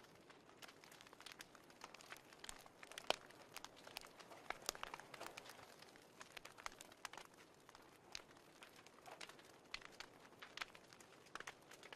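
Fireplace fire crackling: faint, irregular pops and snaps over a low hiss.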